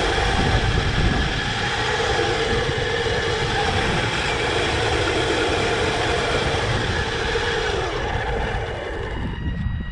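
Kyosho Blizzard 2.0 RC tracked snow vehicle driving, heard from a camera riding on it: a steady run of electric motor and gear whine over the clatter and rumble of the tracks, easing off a little near the end.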